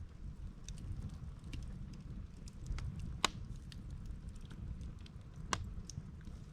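Wood campfire burning, with scattered snaps and pops of the burning logs, two louder ones about three and five and a half seconds in, over a steady low rumble.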